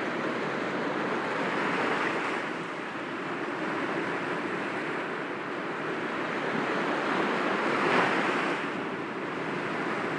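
Sea waves breaking gently against rocks: a continuous wash of surf that swells twice, once about two seconds in and more strongly near the end.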